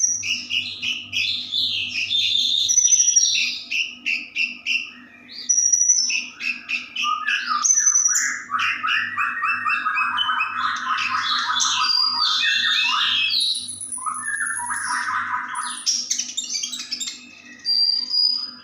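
White-rumped shama (murai batu) singing a long, varied song of clear whistles and fast trilled phrases, breaking off briefly about four seconds in and again near the end.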